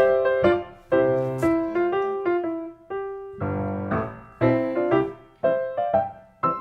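Background piano music: gentle chords and notes struck one after another, each fading away.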